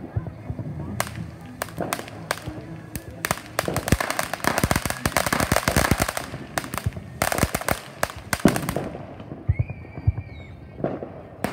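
Consumer firecrackers going off: scattered sharp cracks, then a rapid crackling string of pops from about three to nine seconds in that stops suddenly, followed by a few single pops.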